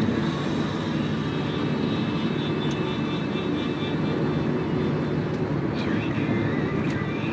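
Steady road and engine noise inside the cabin of a Toyota Camry 2.4 cruising at speed.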